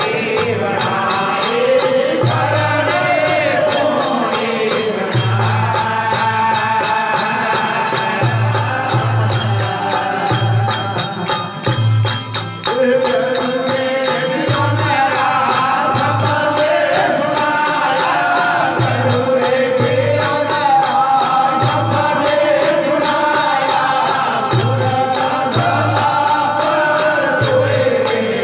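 Rajasthani folk devotional bhajan: a voice sings a drawn-out, bending melody over instrumental accompaniment, with a steady beat of drum and jingling percussion.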